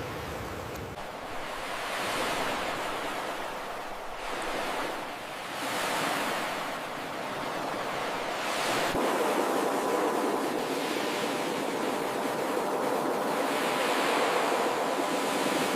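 Ocean surf: waves breaking and washing up the shore, the rush of water swelling and falling back every couple of seconds.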